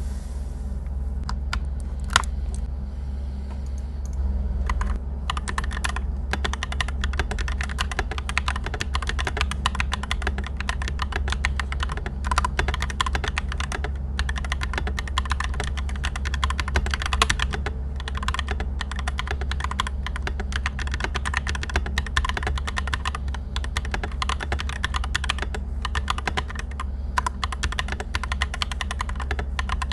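Typing on a TM680 mechanical keyboard with Akko Cream Yellow Pro V3 linear switches. A few separate keystrokes come first, then steady, fast typing from about five seconds in, with the odd louder key strike.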